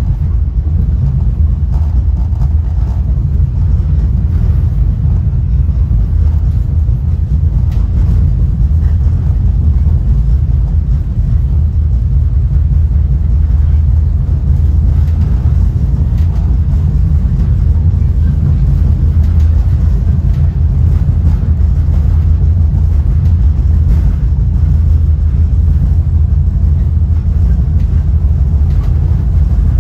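Steady low rumble of a Caltrain Gallery passenger car rolling along the track, heard from inside the car.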